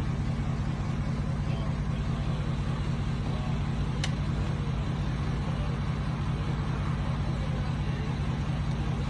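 A motor vehicle's engine running steadily with a deep, even rumble and a fast, regular pulse, its pitch holding constant. A single sharp click about four seconds in.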